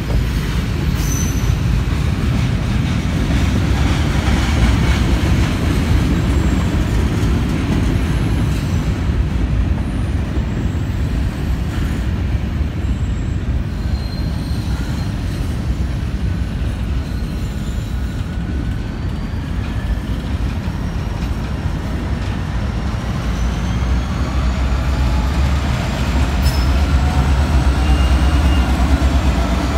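Freight train rolling past: a steady, heavy rumble of wheels on rail with short high-pitched wheel squeals. A longer squeal rises and then falls near the end.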